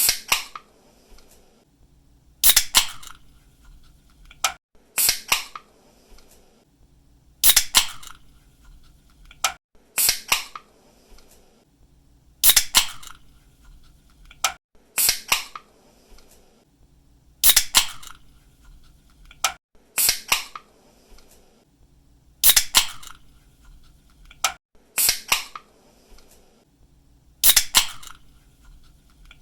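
Ring-pull soda or energy drink can being opened over and over, about every two and a half seconds. Each time there is a small click of the tab, then a sharp snap and a brief hiss as the seal breaks.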